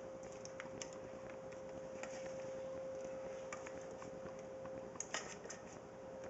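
Spatula scraping thick dip out of a mixing bowl into a baking pan: scattered light taps and clicks, with a cluster of sharper ones about five seconds in, over a faint steady hum.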